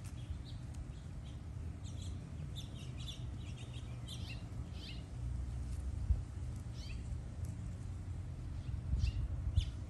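Birds chirping in short, scattered calls over a low, steady rumble, with a couple of brief knocks about six and nine seconds in.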